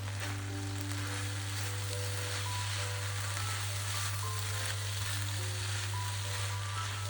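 Food frying in oil in a pan, a steady sizzle, with background music playing along.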